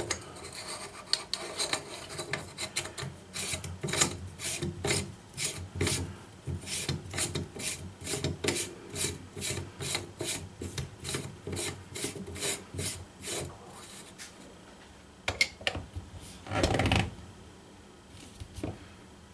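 Buffer tube being screwed by hand into the threads of a rifle chassis: a long run of short scraping strokes, about two a second, for some twelve seconds. A few knocks and a louder scrape follow near the end.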